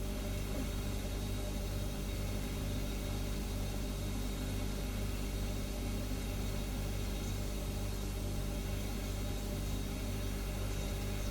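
Refrigerator humming steadily: a low, even hum with several steady tones over a faint hiss, unchanging throughout.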